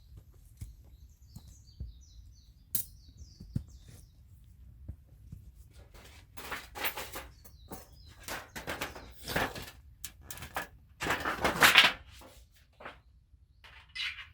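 Small birds chirping faintly, then a run of irregular rustles and knocks, the loudest a longer rustling burst about eleven seconds in.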